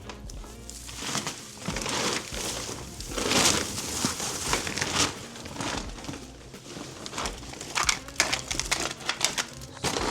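Storage bag crinkling and rustling as a disassembled artificial Christmas tree is handled and packed into it, in irregular swells of noise.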